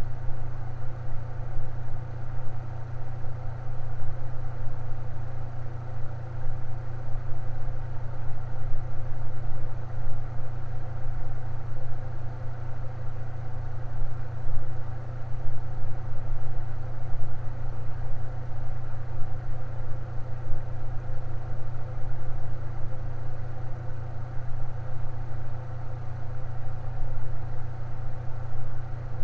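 Electric fan running steadily: a strong low hum with a fainter, even whir above it, unchanging throughout.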